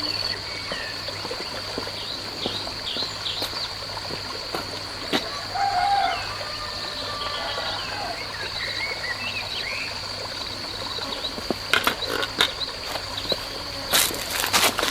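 A steady high-pitched insect drone with scattered short bird chirps, and a few sharp clicks or knocks near the end.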